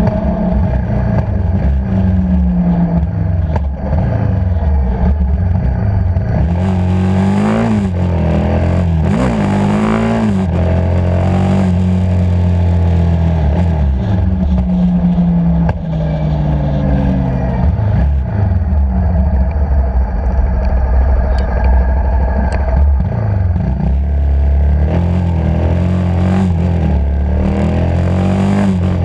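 Motorcycle engine running under way, its pitch rising and falling again and again as it accelerates, shifts and eases off.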